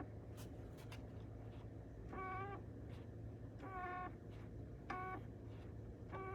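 2022 Chevy Malibu HVAC blend door making its fault noise: a string of short, pitched squeaks about every second and a half, with a few faint clicks, over a steady low hum.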